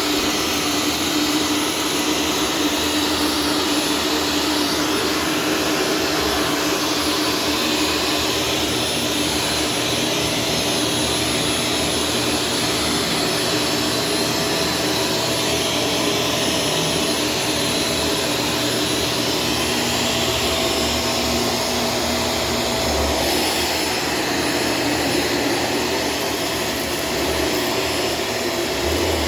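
Shark Stratos vacuum cleaner running steadily, its motor giving an even rushing drone with a faint steady whine.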